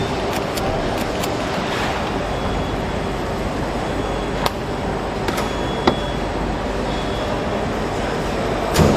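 Steady vehicle running noise, an even rumble and hiss, with a few sharp clicks or knocks, the last and loudest near the end.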